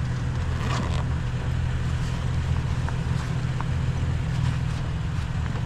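Vehicle engine idling with a steady low hum, with a few faint light clicks over it.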